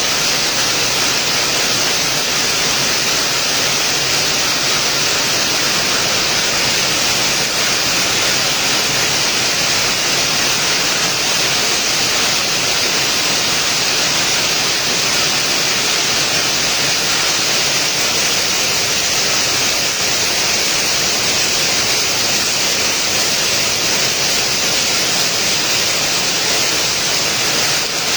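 Steady heavy rainfall: an even, unbroken hiss.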